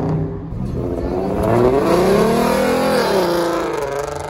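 A car engine revving through an acceleration as it drives off: its pitch climbs for about two seconds, then drops away near the end.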